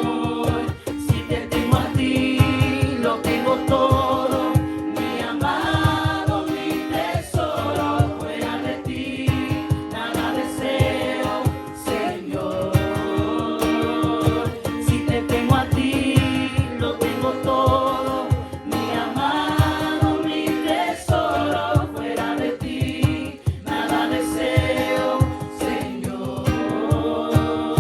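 Group of voices singing a Spanish-language worship song together, over instrumental accompaniment with a steady beat.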